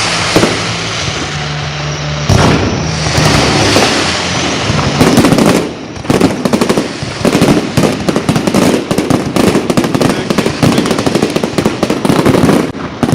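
Fireworks display: a dense hissing crackle for the first few seconds, then from about six seconds in a rapid barrage of sharp bangs and crackles, many a second.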